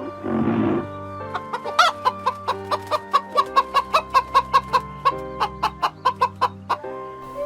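Chicken clucking in a rapid run of short clucks, about four a second, after a brief rough call at the start, over background music.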